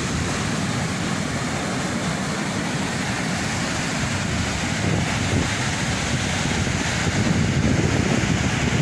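Rough sea surf breaking and washing on the shore, mixed with strong wind buffeting the microphone as a low, steady rumble. It grows a little louder about seven seconds in.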